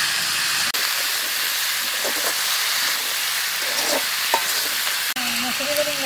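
Cubed papaya and potato frying in oil in a wok over a wood fire, with a steady sizzle, stirred with a metal spatula that scrapes the pan now and then. A woman's voice comes in near the end.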